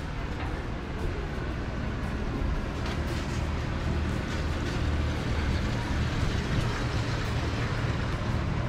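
Steady low rumble of road vehicles running close by, swelling slightly toward the middle.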